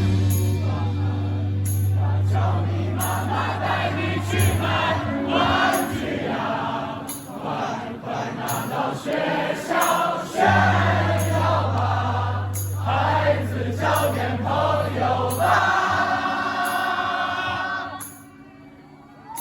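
Live rock music in a quieter passage: a held bass note under singing by many voices, which falls away about a second before the end.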